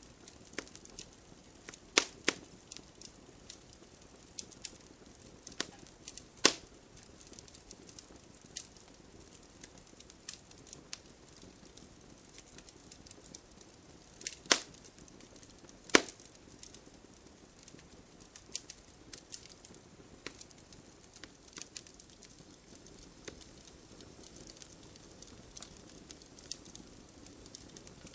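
Wood fire crackling, with irregular sharp pops, a few much louder than the rest, over a faint steady hiss of rain.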